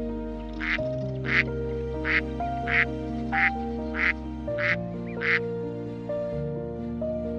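A duck quacking, eight short quacks in an even rhythm about one every two-thirds of a second, stopping a couple of seconds before the end, over background music.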